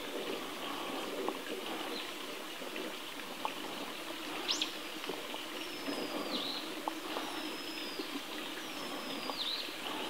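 Small wild birds calling: a sharp high call about halfway through, then three thin whistled notes, each held and then dropping in pitch, over a steady outdoor hiss with a few faint ticks.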